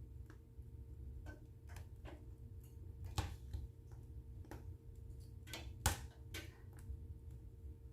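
Wood fire in a fireplace crackling: irregular sharp pops and snaps, the loudest about three and six seconds in, over a low steady rumble.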